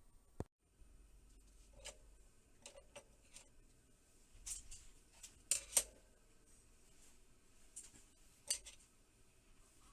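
Scattered light clicks and clinks of small hard parts and tools being handled on a workbench, irregular, the loudest a quick pair about halfway through.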